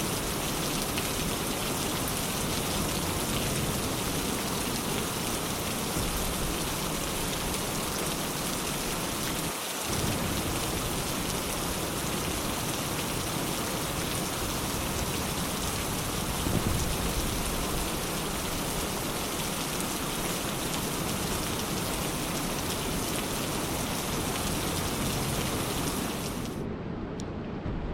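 Steady, dense rain hiss, with a brief low rumble a little past the middle. Near the end the high end cuts out abruptly and the sound turns dull and muffled.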